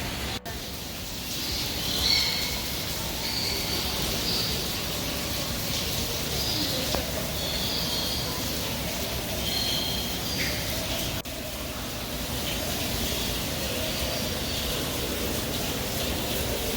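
Birds chirping: many short, high notes scattered over a steady rushing noise.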